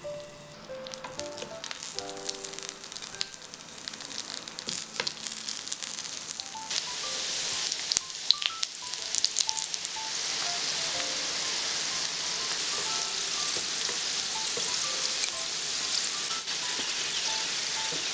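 Butter and oil sizzling in a frying pan, with scattered pops at first. About seven seconds in, the crackling and spattering get louder, and from about ten seconds parboiled potato wedges fry with a steady sizzle.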